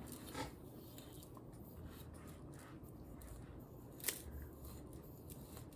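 Faint scratchy handling sounds, with one sharp click about four seconds in.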